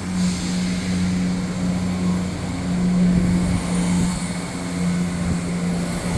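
CrossCountry Class 170 Turbostar diesel multiple unit pulling away, its underfloor diesel engines running under power with a steady low drone.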